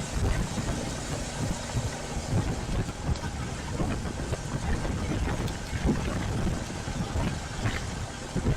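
Royal Enfield Classic 350's single-cylinder engine running at low revs, with a steady hiss over it.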